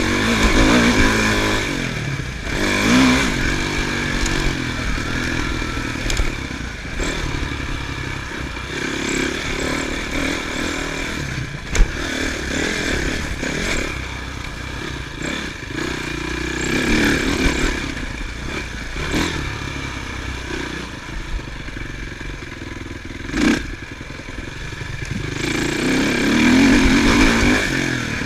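Motocross bike engines revving and easing off as they ride the track, swelling louder several times as bikes come near. Two sharp knocks, about twelve seconds in and near twenty-three seconds.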